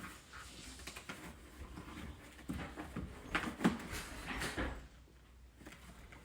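Kitchen work sounds: a run of knocks and clatter from utensils and cookware, busiest in the middle and then dying down.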